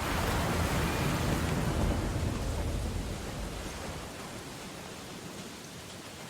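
A heavy ocean wave crashing in a storm: a sudden surge of rushing noise with a deep rumble that swells at the start and fades away over about four seconds, over a steady hiss of rain and surf.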